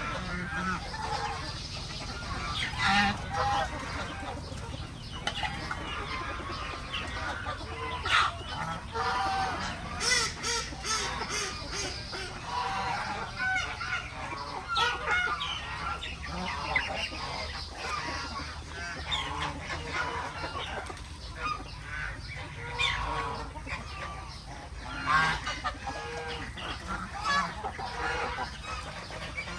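A mixed flock of farm poultry calling: geese honking and chickens clucking in many short, irregular calls, over a steady low rumble.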